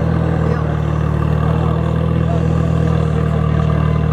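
Engines of two drag-racing vehicles idling at the start line, a steady deep drone that does not change and is not revved.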